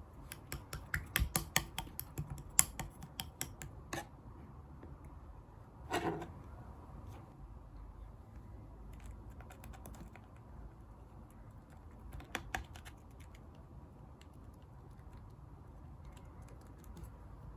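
Clear slime mixed with shaving foam being pressed and poked by hand, making a quick run of sharp crackling clicks over the first four seconds. After that come sparser, fainter clicks, with a louder, longer sound about six seconds in and another burst of clicks around twelve seconds.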